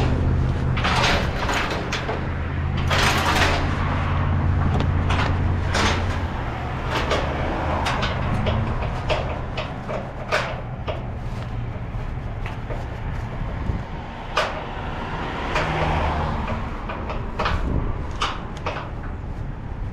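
Semi-truck engine running with a steady low hum, heaviest in the first six seconds. Many sharp clicks and knocks and a few short bursts of hiss sound over it.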